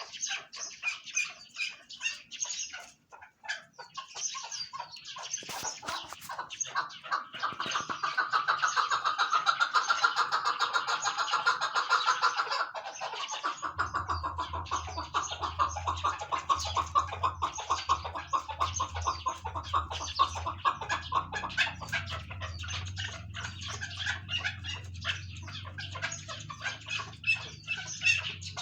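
Chukar partridges calling in rapid runs of clucking chuk notes, loudest and densest in a long burst about a third of the way in. About halfway through, a steady low engine hum starts and continues under the calls.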